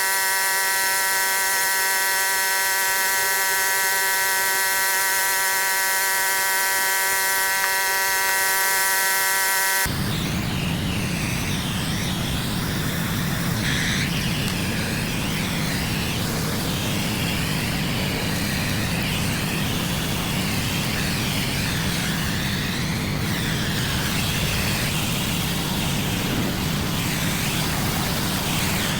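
A steady machine whine for about ten seconds, then an abrupt change to a pressure washer running and spraying water: a dense hiss over a low engine hum.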